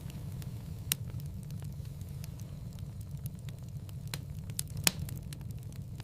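Firewood burning in a fireplace, crackling over a low steady rumble with scattered small pops. Two sharper pops stand out, about a second in and at about five seconds.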